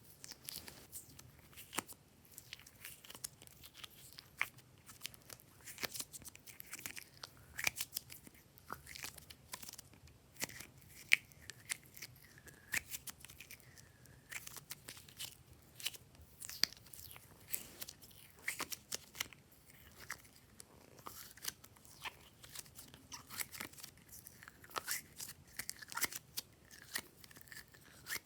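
Glossy slime being kneaded and stretched by hand, making dense irregular sticky clicks and pops, with a few brief squeaks as air is pressed through.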